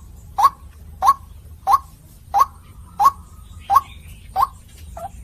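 White-breasted waterhen calling: a regular run of short, sharp, upward-sweeping notes, about eight of them, roughly one every two-thirds of a second, the last one shorter.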